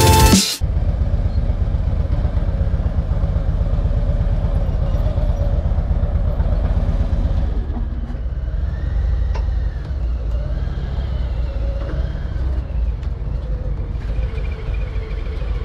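Harley-Davidson V-twin motorcycle engine running at road speed with a steady low rumble of engine and wind, picked up by the bike's onboard camera; about halfway through it turns to a quieter low-speed run. Background music cuts off just after the start.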